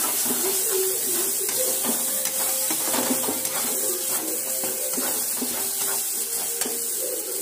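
Onion-and-spice masala paste sizzling in a metal kadhai, with a metal spatula repeatedly stirring and scraping against the pan in short strokes over a steady frying hiss.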